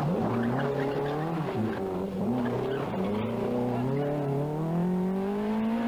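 Rally car engine revving hard, its pitch dropping at gear changes early on and then climbing steadily over the last few seconds as the car accelerates.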